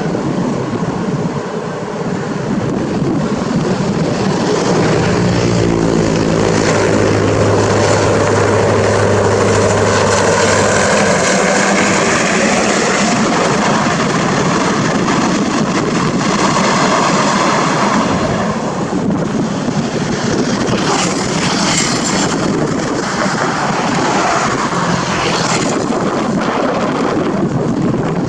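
Diesel-hauled train running past close by: a loud, continuous rumble of engine and wheels on rail. A low steady engine tone holds for several seconds and drops away about ten seconds in, and clacks from the wheels over rail joints follow in the second half.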